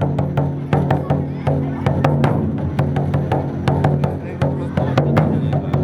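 Wadaiko taiko drums played as an ensemble piece, with sharp, loud strikes several times a second in an uneven, driving rhythm over a steady low tone.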